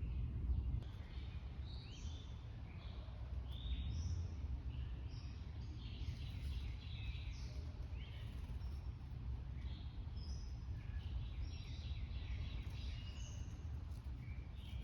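Small backyard birds chirping and calling, many short chirps overlapping, over a steady low rumble.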